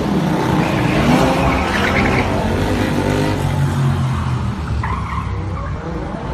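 A car engine running hard, its pitch rising and falling, with tyres skidding on the road.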